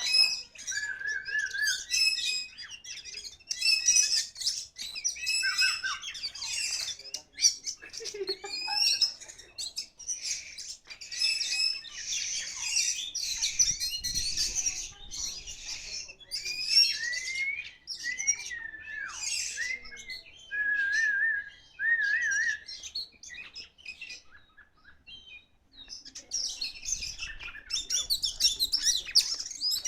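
Oriental magpie-robin (kacer) singing a long, varied song of whistles, trills and sweeping notes, with a short lull about three-quarters of the way through.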